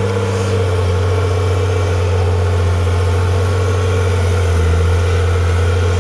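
Engine of a heavy construction machine running steadily, a loud, even low drone.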